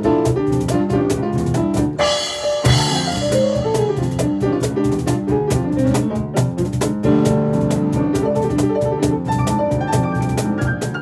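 Piano and percussion playing a fast instrumental piece, quick chords over a driving, evenly struck beat. About two seconds in, the beat drops out for a moment under a crash-like hiss. A piano run then falls downward and the beat comes back in.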